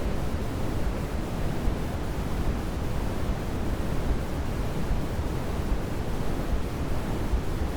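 Steady white noise played as a baby sleep aid: an even, unbroken rush, fuller in the low end than at the top, with no changes.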